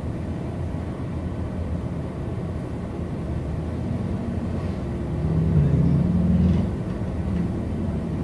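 Automatic car wash machinery running steadily: a low rumble that swells louder for a second or so past the middle, then settles back.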